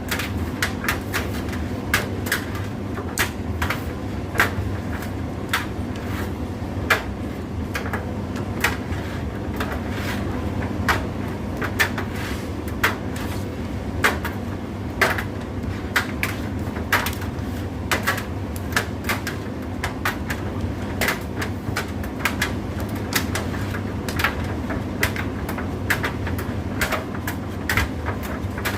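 Indesit IDC8T3 condenser tumble dryer running, a steady low hum with short, sharp clicks and knocks at uneven spacing, about one or two a second.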